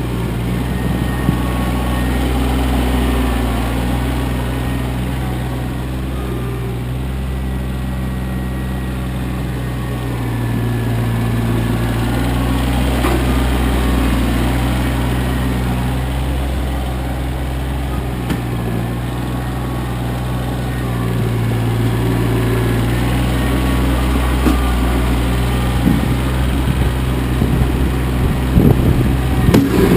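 Kioti CK25 compact tractor's three-cylinder diesel engine running steadily, its note swelling and easing every several seconds as it works. A few sharp knocks come near the end.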